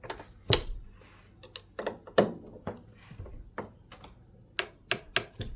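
Irregular sharp clicks and knocks of hand tools and metal parts being handled while a tankless gas water heater's gas valve assembly is fitted and its screws started, with three quick clicks near the end.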